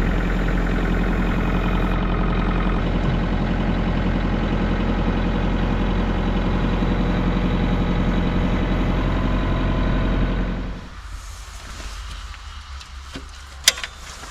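Kubota LX compact tractor's diesel engine running steadily, then shut off about eleven seconds in once the backhoe is detached. A sharp click follows near the end.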